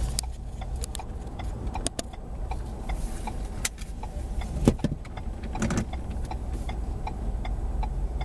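Car driving, with a steady low rumble of engine and road, light ticks scattered through it, and a short knock about four and a half seconds in.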